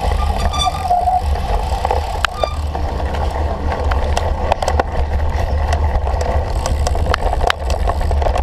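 Cyclocross bike ridden at race pace over rough ground: heavy steady wind rumble on the microphone with frequent sharp clicks and rattles from the bike.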